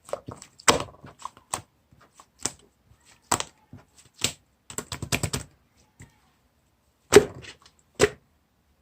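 Slime being squeezed and pressed by hand, giving irregular sharp clicks and pops. A quick run of clicks comes about five seconds in, and two louder pops come near the end.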